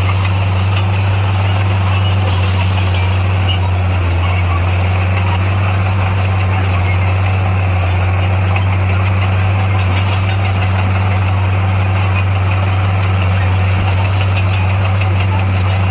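Heavy diesel earthmoving machine engine running at a steady speed, a constant low hum.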